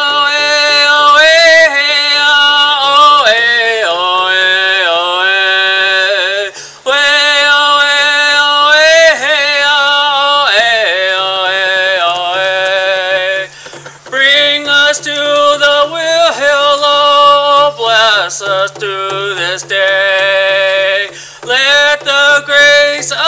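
A man singing a Native American spiritual song in long wordless phrases, his voice sliding between held notes, with short breaks for breath between phrases.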